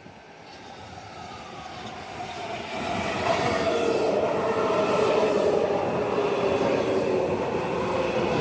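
Washington Metrorail train coming into the station, growing louder over about three seconds and then holding steady, with a whine that slowly falls in pitch over the rumble of wheels on rail.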